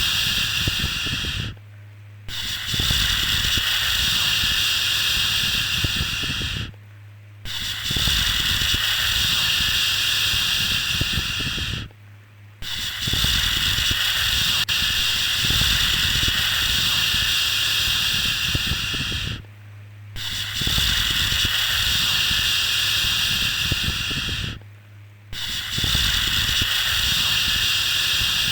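Long, repeated 'shhh' shushing sound for settling a baby, each shush held for about four to seven seconds with a short breath-like pause of under a second between them, five pauses in all.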